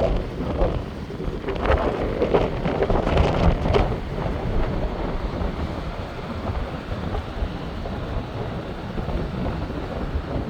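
Sea waves washing onto the shore under heavy wind buffeting the microphone; the surf swells up between about one and four seconds in.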